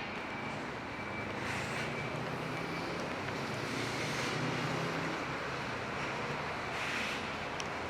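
Traffic on a wet city street in the rain: steady hiss of tyres on wet road, swelling as vehicles pass, with the low drone of an engine for the first few seconds.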